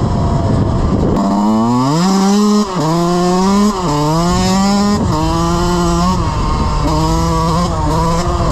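Dirt bike engine accelerating hard: the revs climb, fall sharply at two quick upshifts, climb again, then hold steady. A rush of wind noise comes first, before the engine note takes over about a second in.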